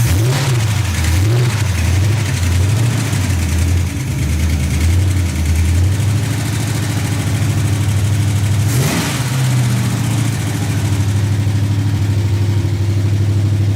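Pontiac 350 V8 in a 1955 Chevy truck, running just after its first start. For about six seconds the revs rise and fall unevenly as it is held on the gas, then it settles into a steady, even run, with one quick blip of the throttle about nine seconds in.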